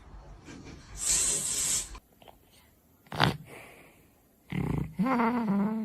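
A pet animal snorting and breathing noisily, with a short, sharp snort about three seconds in. Near the end comes a held, low, pitched call.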